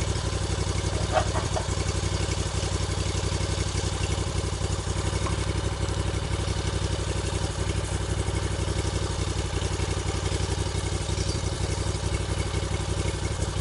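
An engine running steadily at an even speed, with a fast, regular low pulse.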